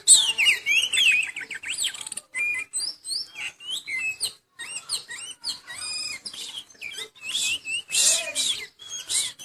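Oriental magpie-robin (kacer) in full song: a rapid, varied run of whistles, chirps and short trills broken by brief gaps, from a bird that is moulting but still singing hard.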